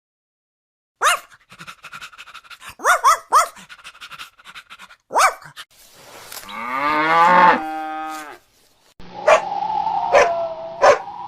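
A series of animal calls: several short calls, then one longer call that falls in pitch, then a steady tone broken by a few sharp clicks near the end.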